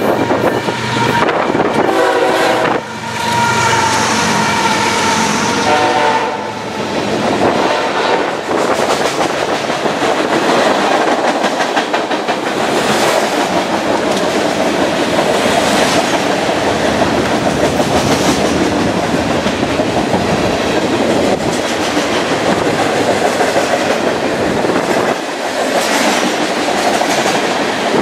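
Diesel freight locomotives sound their horn, a chord of steady tones over the first six or seven seconds, as they pass close by. Then a long string of freight cars rolls past with steady wheel noise and clickety-clack over the rail joints.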